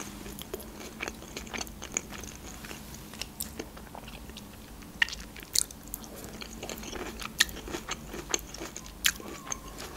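A person chewing sushi rolls and pickled ginger close to the microphone: soft crunches and wet mouth clicks scattered throughout, with a few sharper ticks.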